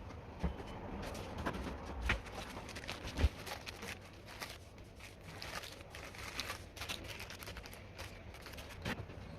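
Scattered light clicks and knocks of handling, with one louder knock about three seconds in.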